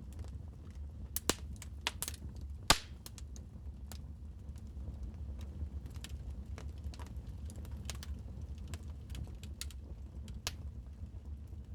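Wood fire crackling in a fireplace: irregular sharp pops and clicks, a cluster in the first three seconds with the loudest pop a little under three seconds in, over a low steady rumble.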